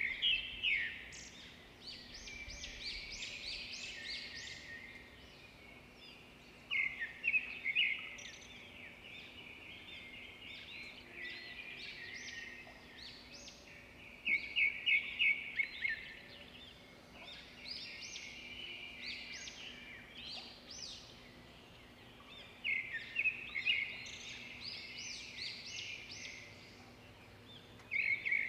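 A small songbird singing: loud phrases of quick, high chirps come four or five times, about every seven or eight seconds, with softer twittering in between.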